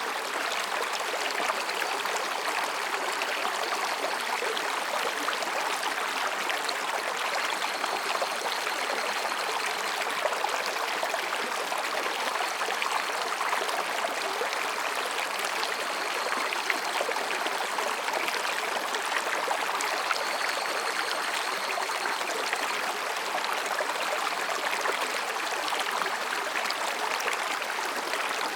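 Mountain stream babbling steadily over and between rocks, an even rush of water. Faint higurashi cicadas sound a few times as short high tones behind it.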